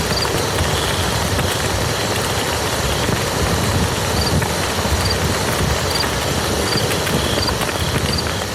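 Steady rain falling on a muddy field, an even, dense patter of drops.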